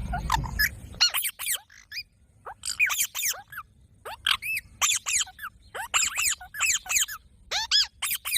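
Green parrot giving loud, shrill calls: short groups of two to four quick arching notes, repeated about once a second. A low rumble sits under the first second.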